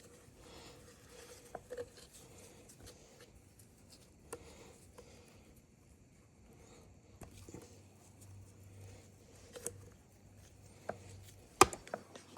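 Small clicks and taps of tools and parts being handled during work on a chainsaw's oil pump, scattered and irregular, with one sharp knock near the end.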